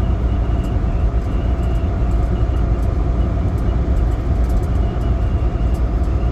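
Semi truck running down the road: a steady low diesel drone with road noise.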